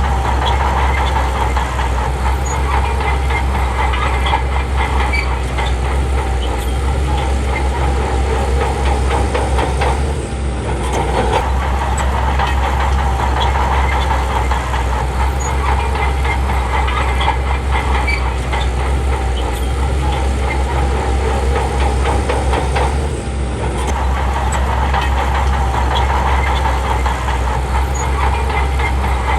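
Heavy diesel engine of a Shantui bulldozer running steadily at work, with a clanking rattle over it. The sound eases briefly twice, about ten seconds in and again about two-thirds of the way through.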